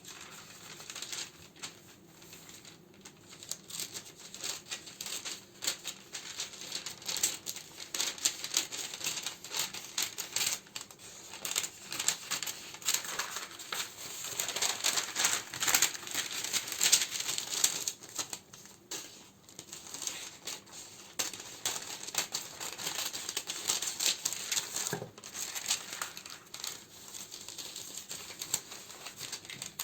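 Plastic and paper wrappings crinkling and rustling, with many small clicks and taps, as candles are handled and sorted by hand. It is busiest about halfway through.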